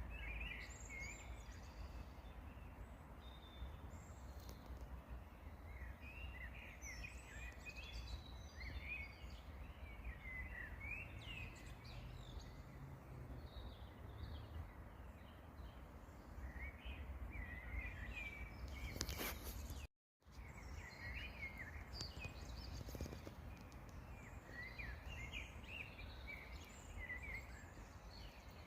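Songbirds singing and chirping in short, scattered phrases over a steady low outdoor rumble. The sound cuts out completely for a moment about twenty seconds in, just after a brief click.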